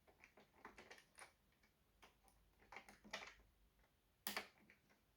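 Faint scattered clicks and taps of small screws and plastic parts being handled during reassembly of a robot vacuum, with one sharper click about four seconds in.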